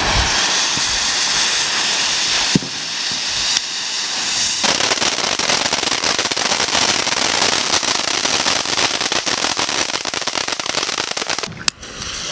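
Fireworks going off: a continuous, dense crackle of rapid sharp pops over a loud hiss, with a few abrupt changes in character in the first few seconds.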